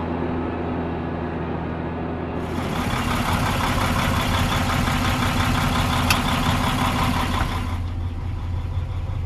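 Claas Xerion 640 tractor's six-cylinder 6.8-litre John Deere diesel engine running steadily. The sound changes abruptly about two and a half seconds in and again near the eight-second mark, with a single sharp click around six seconds.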